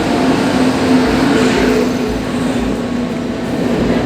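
Tamralipta Express passenger train arriving: a loud, steady rumble with a low steady hum.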